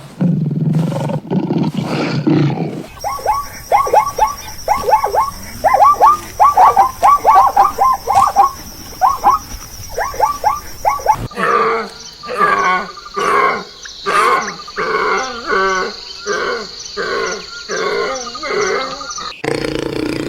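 Animal calls in several short clips that change abruptly: a low sound, then many quick repeated calls, then a slower run of rhythmic calls.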